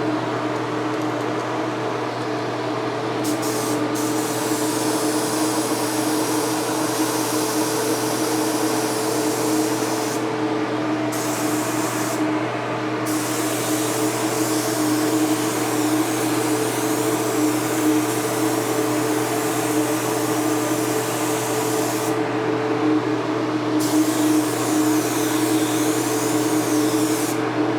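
Air spray gun hissing as it lays a thin dust coat of metal flake in clear, the trigger let off briefly three times, over a steady motor hum.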